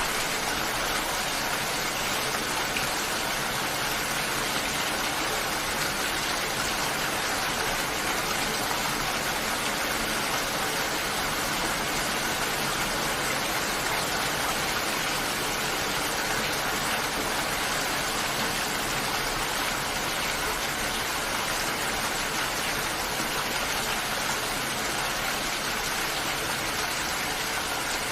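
Steady heavy rain, an even hiss that holds at one level with no single drops, thunder or other events standing out.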